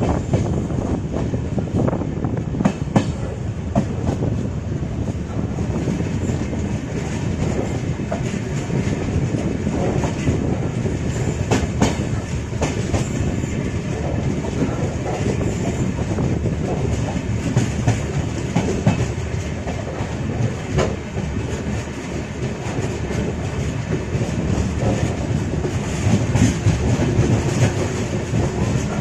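Express passenger train running, heard from on board: a steady rumble with wheels clattering over rail joints and occasional sharper clacks.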